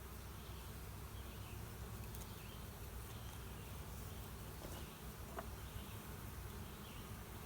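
Honeybees buzzing as a steady hum around an opened hive, with a few faint clicks.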